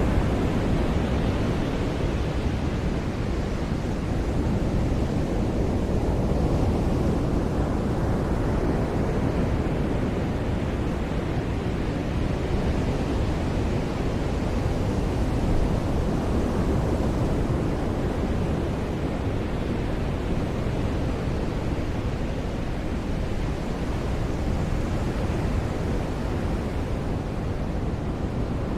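Ocean surf washing onto a beach: a continuous rush of breaking waves that swells and eases slowly every several seconds.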